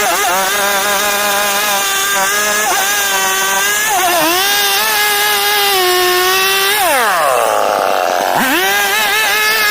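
STIHL two-stroke chainsaw engine running at high revs. Its pitch sags a little a few times, then falls steeply about seven seconds in as the throttle comes off, and climbs back to full revs a second or so later.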